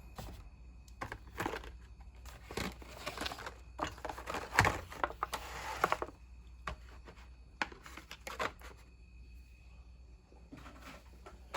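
Carded diecast cars being moved around by hand: plastic blister packs and cardboard card backs rustling and clacking irregularly, busiest in the first half.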